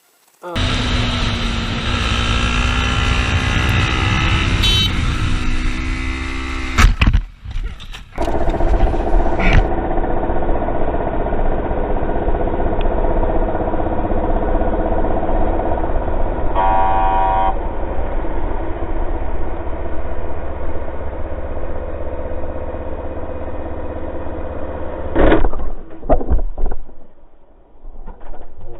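Motor vehicle engine running with road noise, its pitch rising and falling with the revs, then after a break steadier running; a short horn blast sounds a little past the middle and a sudden loud impact comes near the end.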